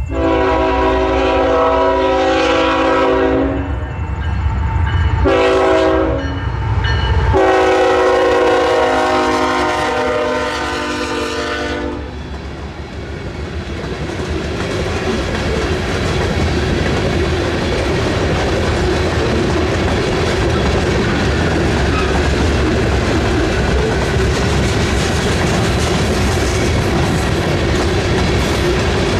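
A CN freight locomotive, an ET44AC, sounds its horn in a long, a short and a long blast, the end of the grade-crossing signal. The train then runs past with steady rumbling and wheel clatter on the rails.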